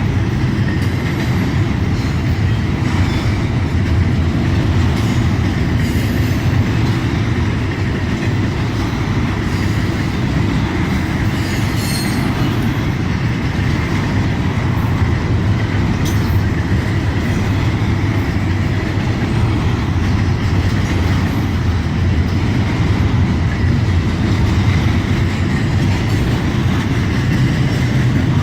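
CSX intermodal freight train rolling past: a steady loud rumble of wheels on rail, with a faint high wheel squeal held throughout and a few light clicks.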